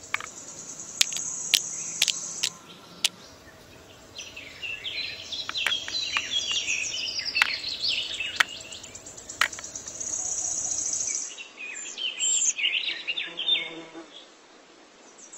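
Birds chirping over a steady high-pitched insect buzz, with about a dozen sharp clicks and taps scattered through the first two-thirds.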